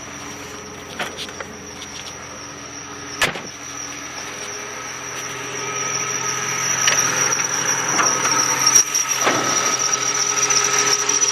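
1993 Ford pickup engine idling after its first start in two years, with a steady high-pitched squeal over the running. A sharp knock comes about three seconds in, and the engine grows louder from about six seconds in.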